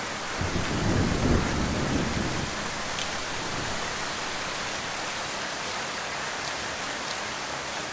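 Heavy rain falling steadily, with a low roll of thunder that begins about half a second in and dies away by about two and a half seconds.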